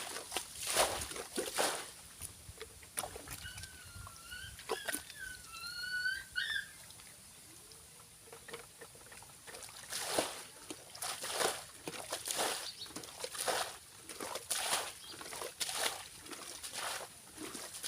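Shallow water splashing and sloshing in uneven runs of short strokes, as when wading or working by hand in a flooded paddy pond. A steady high hiss runs underneath, and between about three and seven seconds in a few pitched chirping calls rise and fall.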